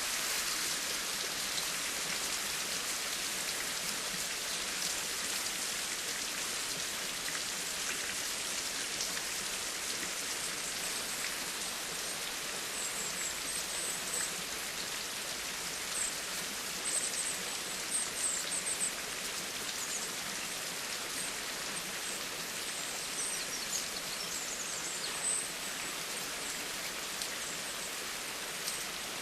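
Steady rainfall pattering on surfaces: an even, unbroken hiss of falling rain and drops.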